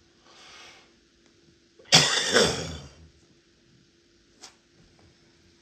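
A person takes a breath in, then gives one loud cough about two seconds in, with a falling pitch. A faint click follows.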